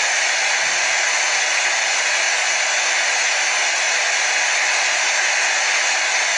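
Hair dryer blowing steadily, a constant even whoosh of fan and airflow with no change in speed.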